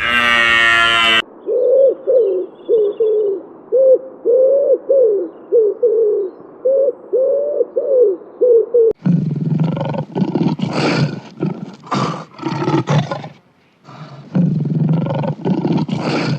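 A sequence of animal calls. A pitched call ends about a second in, then comes a run of short, pitched calls about twice a second. From about nine seconds in there is a series of rough, growling roars with short gaps between them.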